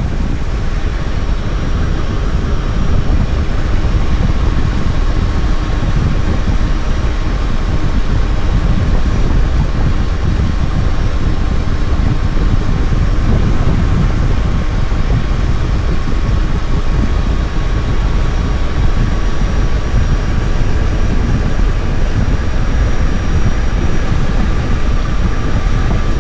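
Yamaha Tracer 900 GT's three-cylinder engine running at a steady cruise while riding, under heavy wind rumble on the microphone.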